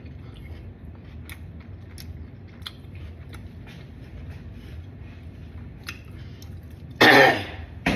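A person chewing a mouthful of taco with her mouth closed, with faint scattered clicks from the mouth. About seven seconds in there is a short, loud vocal sound.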